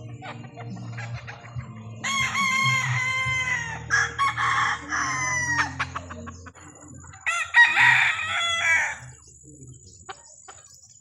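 Roosters crowing: three long crows one after another, the first about two seconds in and the last ending near nine seconds, over a steady low hum.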